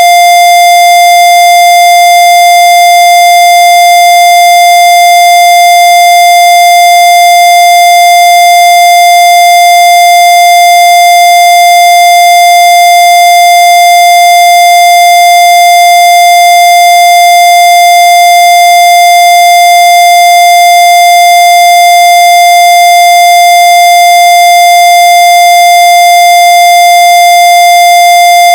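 Loud, steady electronic tone held at one unchanging pitch, with thin overtones above it and no break or wavering.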